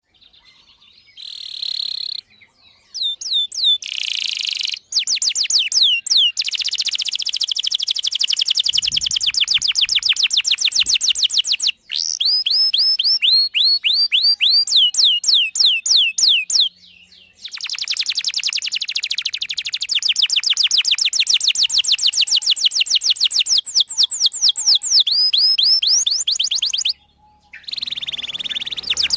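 Domestic canary singing a long, rapid trilling song of quick sweeping whistled notes, in extended phrases broken by a few brief pauses.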